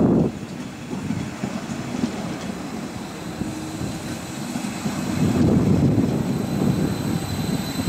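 A train running on the track: a low, continuous rumble that swells about five seconds in.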